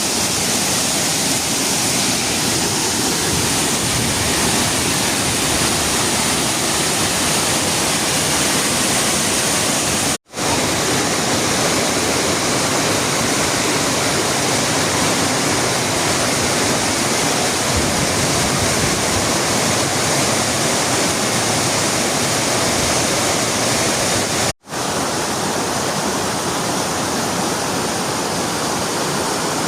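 Steady, loud rushing of water, like a waterfall or fast stream. It cuts out abruptly twice for a split second, about ten seconds in and again near twenty-five seconds.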